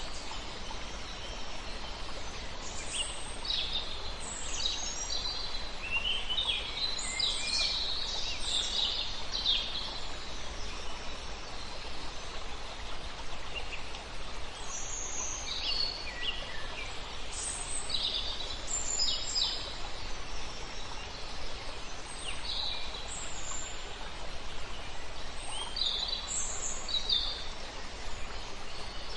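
Several songbirds singing in short, high chirps and trills that come in bunches with brief pauses, over a steady background rush of a flowing river.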